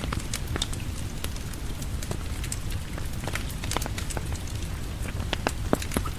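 Steady rain with a low rumble, over which many sharp irregular pops and crackles of a wood fire sound.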